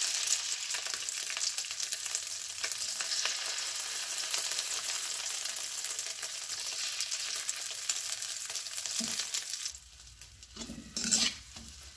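Egg batter with spring onion and chilli sizzling as it fries in hot oil in a wok, with a metal spoon and spatula stirring and scraping in it. The sizzle drops off sharply near the end, leaving only a few light clicks.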